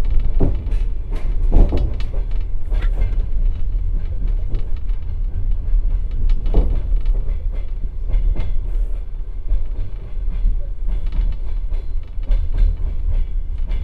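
Passenger compartment car rolling out of a station, heard from inside the car: a steady low rumble with irregular knocks and clacks from the wheels over rail joints and switches.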